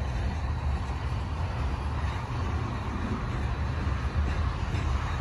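Covered hopper cars of a freight grain train rolling past, a steady low rumble of steel wheels on rail.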